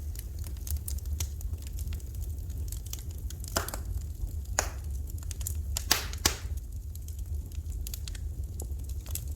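Wood fire in a fireplace crackling: scattered sharp pops and snaps, a few louder ones in the middle, over a steady low rumble.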